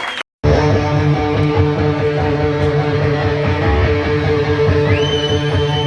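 A hard rock band playing live and loud, with electric guitars over bass and drums. About five seconds in, a high note slides up and is held. The sound cuts out for a moment just after the start.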